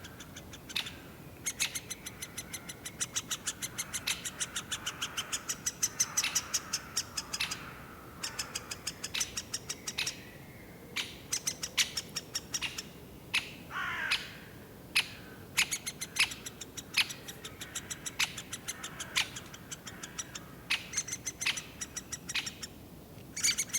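Great spotted woodpecker nestlings begging from inside the nest hole: a rapid, steady run of short high calls that pauses now and then, from two or three chicks. A lower, falling call from another bird comes in about midway.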